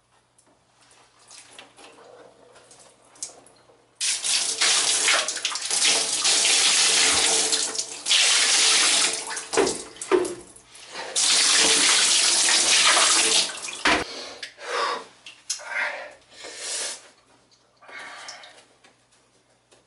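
Water running from a tap during a bath, starting about four seconds in and running steadily. It breaks off briefly near ten seconds, runs again until about thirteen and a half seconds, then gives way to shorter splashes.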